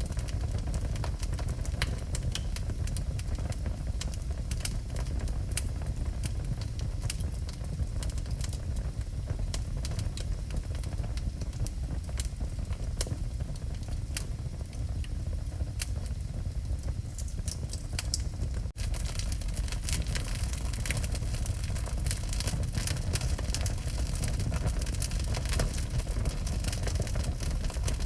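Wood fire burning in a fireplace, with frequent sharp crackles and pops over a steady low rumble of the flames. Near two-thirds of the way through the sound cuts out for an instant, then carries on with a little more hiss.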